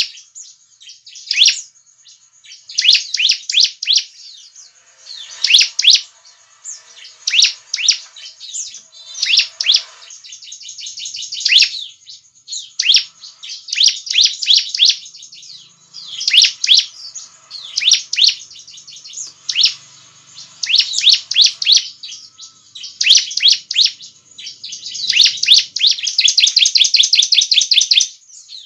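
Bar-winged prinia (ciblek) singing loudly: phrase after phrase of rapid high-pitched chirps, each about a second long with short pauses between, ending with a longer fast trill near the end.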